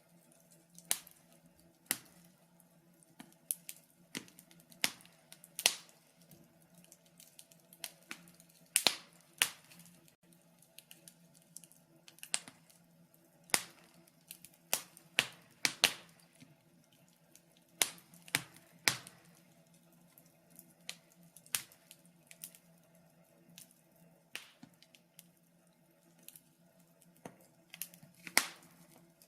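Wood fire in a fireplace crackling: irregular sharp pops and snaps, one or two a second.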